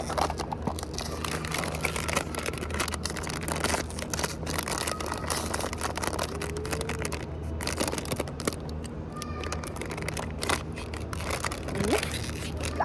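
Plastic blind-box packaging crinkling and rustling as it is torn open, in many small irregular crackles, over a steady low hum.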